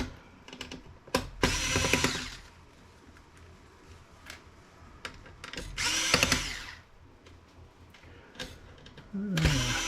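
Electric drill driver run in three short bursts of about a second each, backing out small screws from a laptop case.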